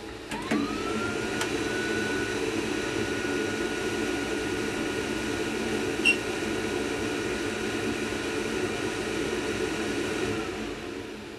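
Rinnai tankless gas water heater running: a few clicks, then a thin whine that rises and holds steady over a broad, rushing rumble, with a sharp tick about six seconds in. The sound dies away near the end. The owner suspects the burner is flaming out.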